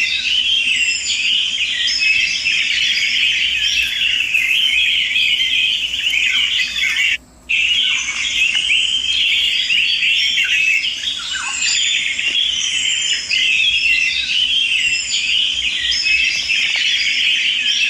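Dense chorus of many small birds chirping and squawking. The sound cuts out completely for about half a second around seven seconds in.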